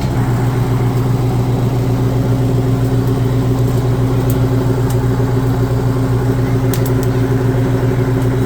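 Heavy truck engine running at steady revs: a deep, even drone that holds one pitch throughout, with a few faint clicks late on.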